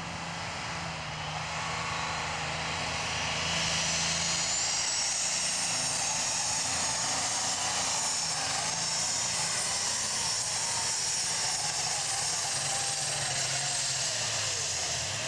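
Super stock pulling tractor's turbocharged engine running, with a high turbo whine that climbs about four seconds in, holds steady, and drops away near the end.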